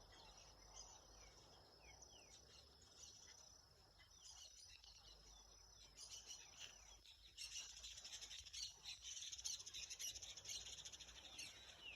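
Faint birds chirping, with short falling whistles; a denser, rapid high chatter joins about seven and a half seconds in.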